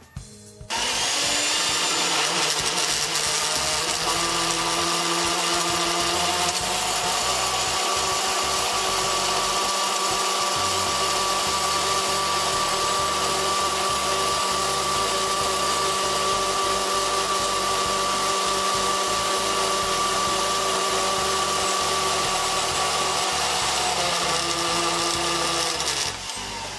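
HE&M Femi 782 portable bandsaw, with a half-inch blade driven by a dual-speed motor, running steadily. It starts abruptly about a second in and stops near the end, with a few steady tones riding over a loud even machine noise.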